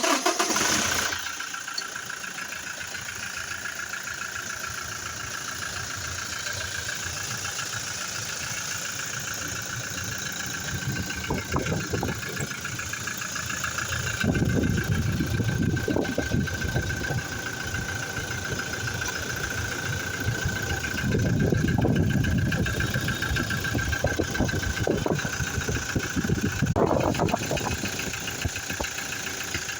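Toyota Fortuner engine starting with a sudden loud burst, then idling steadily with a thin high whine over it. It gets louder twice for a few seconds, about halfway in and again a little later, with a brief rise near the end.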